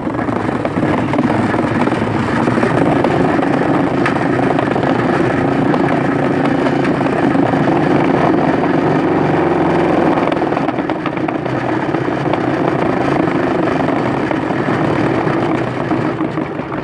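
Balloons tied to a bicycle's mudguard stays being slapped by the turning spokes: a loud, steady, rapid rattling buzz that imitates a motorcycle engine.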